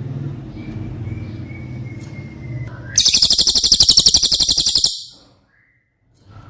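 Cililin song: a low buzzing sound with a faint thin held whistle, then about three seconds in a loud, very fast, high-pitched trill lasting about two seconds.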